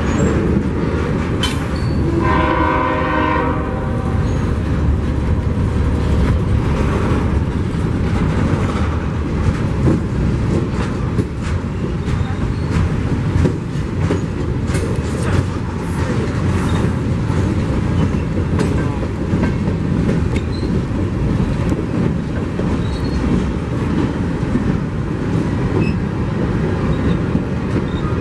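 Train passing close by, its wheels rumbling and clicking over the rail joints, with one short horn blast about two seconds in.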